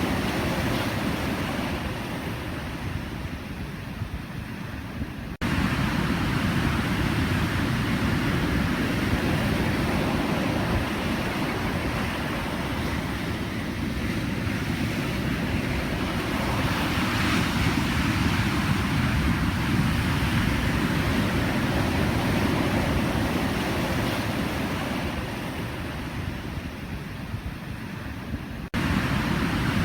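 Pacific Ocean surf: a continuous wash of breaking waves that swells and recedes. It jumps abruptly louder about five seconds in and again near the end.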